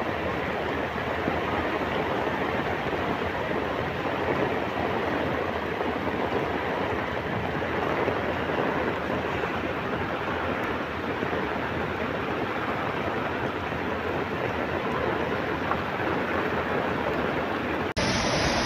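Heavy rain falling in a steady downpour, an even hiss and patter with no letup, broken by an abrupt cut near the end.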